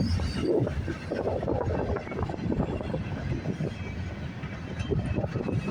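Freight train cars rolling past, a steady rumble with irregular clatter of wheels on the rails.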